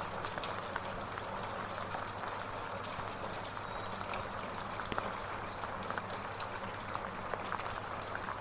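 Light drizzling rain falling steadily, a continuous hiss of patter with many small scattered drop ticks.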